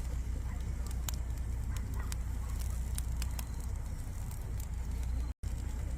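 Campfire crackling, with scattered sharp pops and snaps over a steady low rumble; the sound cuts out briefly near the end.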